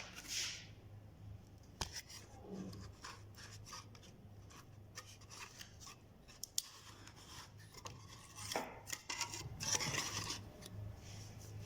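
Irregular light clicks and short scratchy rubbing sounds over a steady low hum.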